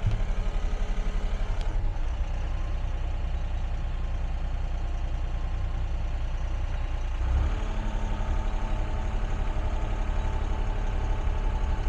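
Excavator's diesel engine running steadily with a pulsing throb. About seven seconds in there is a brief low surge, after which the engine note holds steadier.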